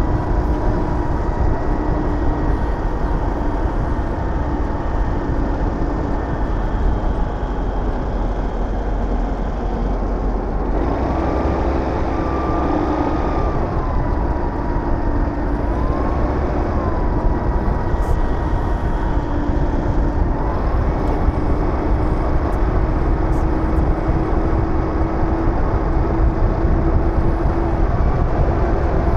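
Aprilia SR GT 200 scooter's single-cylinder engine running at riding speed, with heavy wind rumble on the microphone. About halfway through, the engine note rises, wavers and then settles back to a steady drone.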